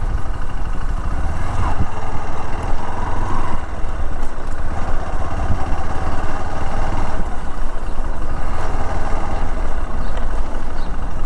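Motorcycle ride noise: a steady low engine-and-wind rumble on the rider's microphone, with no clear pitched note.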